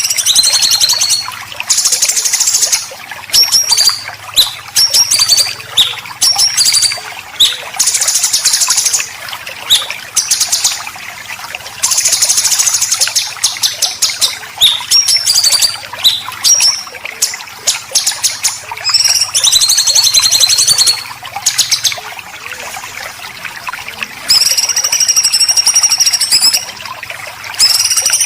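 Songbird song of the kind used as masteran: bursts of rapid, harsh chattering 'besetan' phrases, each a second or two long, mixed with short high whistled notes that glide, with brief gaps between phrases.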